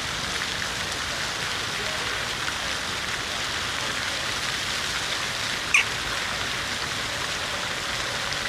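City fountain water splashing steadily into its basin, with one brief high chirp a little over halfway through.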